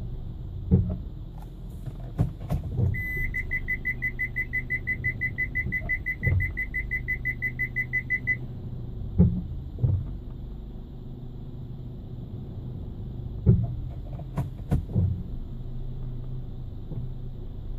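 Hyundai ix35 running at low speed, with a steady low hum and several short dull knocks, likely the brake noise in question. For about five seconds its parking sensor beeps rapidly, about five beeps a second.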